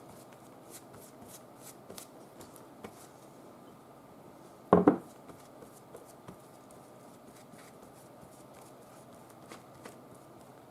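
Quiet tabletop handling of paper and craft tools: light scattered taps and clicks, with one short, louder knock or rustle just before 5 s in.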